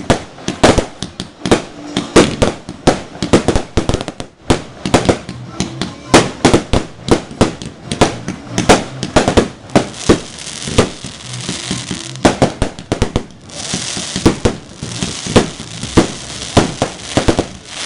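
Fireworks going off in a rapid barrage of sharp bangs and pops, several a second, with a stretch of crackling hiss about two-thirds of the way through.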